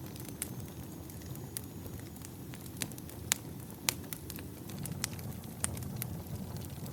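Firewood burning: irregular sharp crackles and pops from the burning wood, two of them loudest a little past halfway, over a low steady rumble of the fire.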